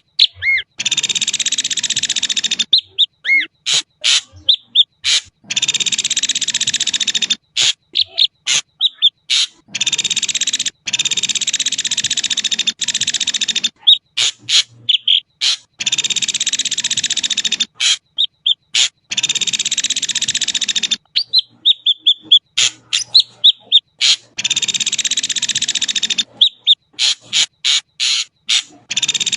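Ashy drongo calling: long harsh, rasping phrases of about two seconds each, some seven of them, with short clear whistled notes and sharp clicks in between.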